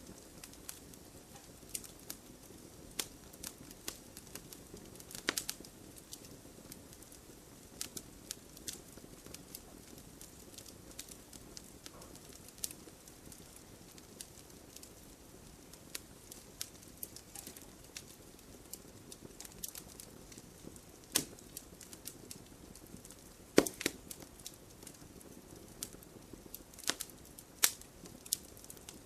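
Wood campfire crackling steadily under a soft low rush of flame, with irregular sharp pops and snaps; the loudest pop comes about two-thirds of the way through.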